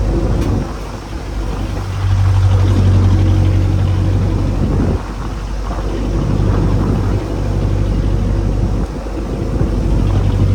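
Boat engine running with a steady low drone that drops briefly and comes back a few times.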